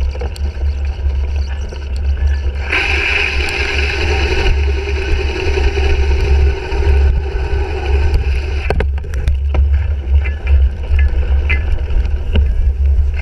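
Bicycle riding over rough ground, heard through a bike-mounted action camera: steady low rumble and wind buffeting on the microphone. A louder rushing noise comes in about three seconds in and lasts about five seconds, and a few sharp knocks come about nine seconds in.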